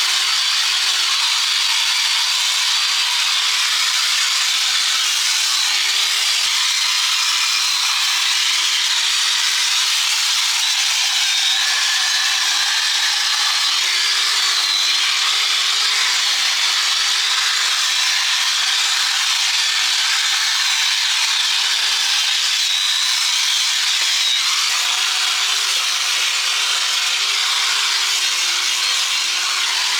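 Handheld power grinder working on steel: a continuous, loud grinding hiss with the motor's pitch wavering slightly as the load changes.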